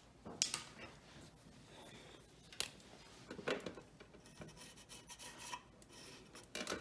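Black Sharpie marker tip rubbing and scratching along the edge of a painted plate while tracing an outline, with a few light knocks from handling it.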